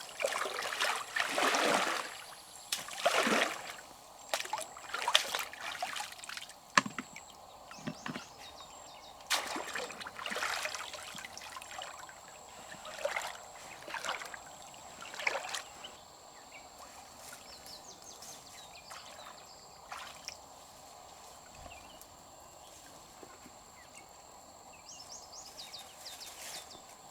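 Shallow river water sloshing and splashing in irregular bursts, as if stirred by hands or wading, dying down about halfway through to a quieter steady water background with a faint thin high tone.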